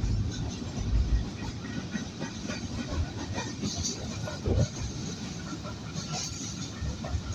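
Goods train passing, its wagons rumbling and clattering over the rail joints, with scattered metallic squeals and clicks.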